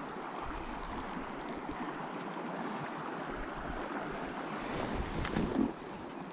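Small mountain stream flowing steadily, a continuous rush of water over rocks, with a brief louder patch of low thumps about five seconds in.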